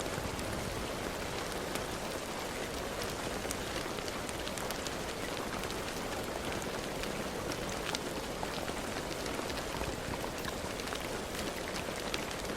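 Steady rain falling, with many sharp individual drops ticking over an even hiss.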